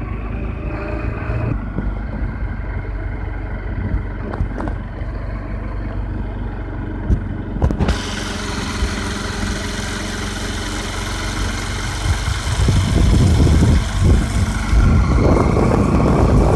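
A motor vehicle's engine running steadily, with a louder low rumble coming in during the last few seconds.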